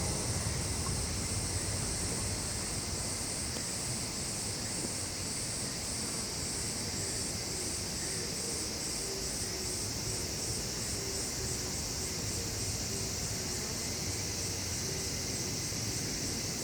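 Chorus of summer insects, cicadas and crickets, with a steady high shrill and a pulsing high trill that grows quicker and clearer a few seconds in, over a low steady rumble.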